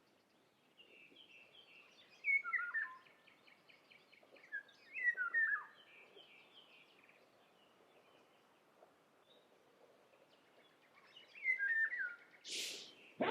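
A songbird singing three times, each phrase a quick run of notes followed by a few slurred notes falling in pitch. A short hissing burst comes near the end.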